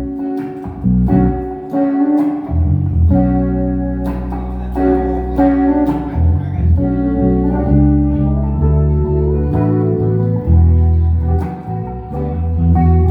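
Instrumental jam: plucked guitar notes and chords ringing over a steady low bass line.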